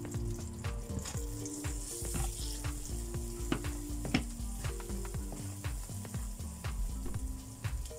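Pounded chili paste sizzling as it fries in oil in a stainless steel wok, stirred with a spatula that scrapes and clicks against the pan over and over.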